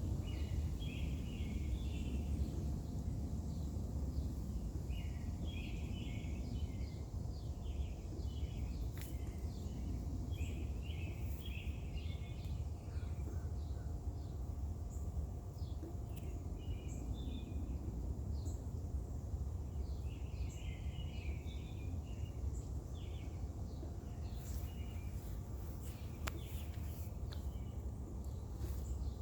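Birds singing in short repeated bursts of chirping notes, several times over, against a steady low background rumble.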